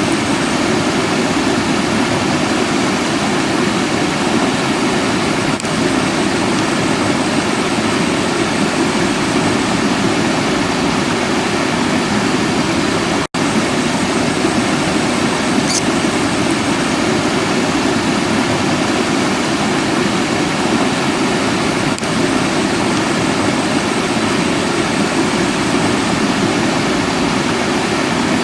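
Steady rushing water, a dense even noise with one momentary break about halfway through.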